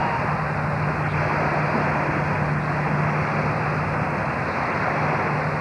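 A steady engine drone: a constant low hum under an even rushing noise, unchanging throughout.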